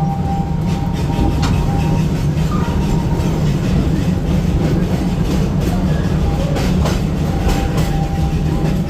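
Theme-park railroad train rolling along the track, heard from aboard a passenger car: a steady low rumble with irregular clicks of the wheels over the rail joints.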